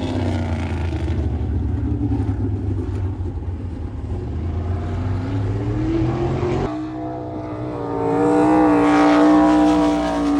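Sprint car V8 engine running on a dirt oval: the engine note falls off, then climbs again as it revs up, and gets louder and stronger near the end.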